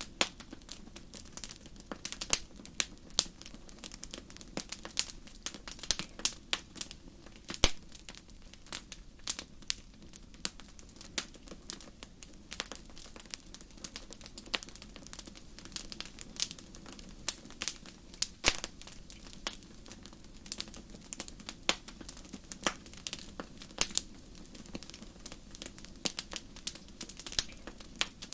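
Wood campfire crackling, with irregular snaps and pops over a low, steady hiss of burning; a couple of pops stand out louder.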